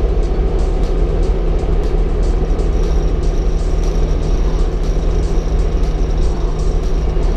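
Car on the move: steady engine and road rumble, with a faint thin high whine from about three seconds in to near the end.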